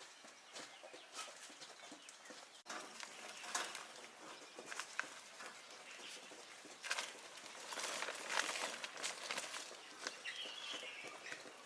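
Young chicks pecking and scratching at scattered wheat grain: a busy run of small taps and rustles, with a brief peep about ten seconds in.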